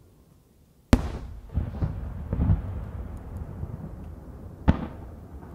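Aerial firework shells exploding: a sharp bang about a second in, followed by rolling echoes, and a second sharp bang near the end.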